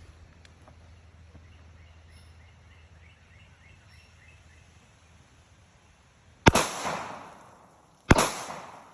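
Two pistol shots, about a second and a half apart, from .40 S&W 180-grain HST hollow-point rounds, each with a short echoing tail. A faint run of quick chirps comes before them.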